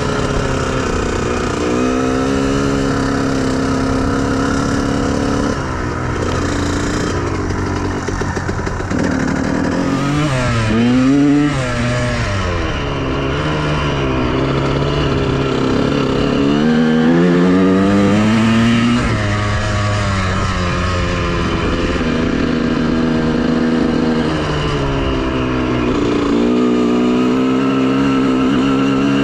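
Honda CR125R two-stroke 125 cc single-cylinder motocross engine under way, revving up and dropping back with the throttle and gear changes. Its pitch rises and falls several times, with a quick swoop about a third of the way in and a longer climb past the middle.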